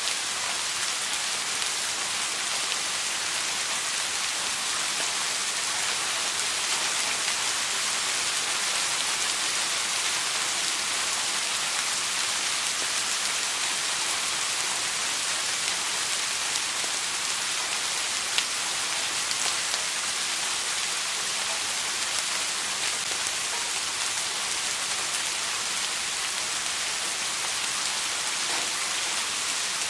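Steady rain falling on a hard surface: an even hiss with scattered drop ticks.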